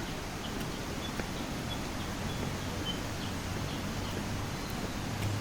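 Tropical forest ambience: a steady rushing background noise with faint, short bird chirps scattered through it. A low steady hum comes in near the end.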